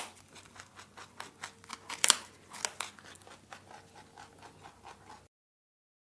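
Rabbit sounds: a rapid, uneven run of small crisp clicks and crunches that cuts off suddenly about five seconds in.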